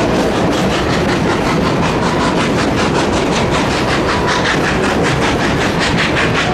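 Narrow-gauge steam train running uphill, heard from a passenger car: a steady loud rumble with an even, rapid beat of about four strokes a second.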